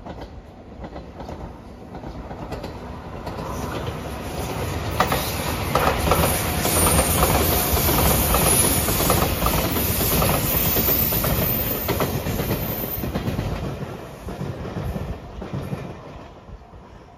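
JR Shikoku 8000 series electric limited express train passing close by. Its wheel rumble and rail-joint clickety-clack build up over several seconds, hold loud through the middle, then fade as it moves away.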